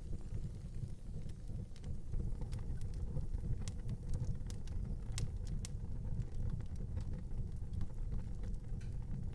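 Wood fire crackling in an outdoor fireplace: irregular sharp pops and snaps over a steady low rumble.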